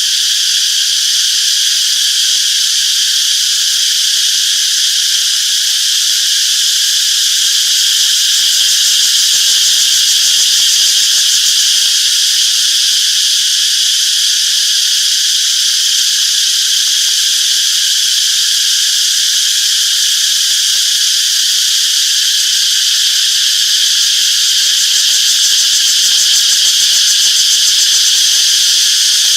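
Cicadas chirping in a steady, unbroken high-pitched chorus.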